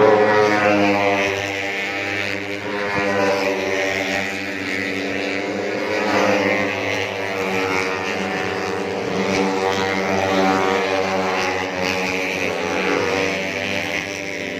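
Four-stroke 150cc underbone race motorcycles running at high revs, several engines heard at once with their pitch rising and falling as the bikes pass and shift, including one falling sweep right at the start.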